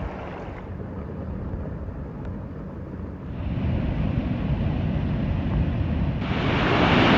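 Heavy rain with wind rumbling on the microphone. The sound changes abruptly twice, about three and six seconds in, and turns louder and hissier near the end.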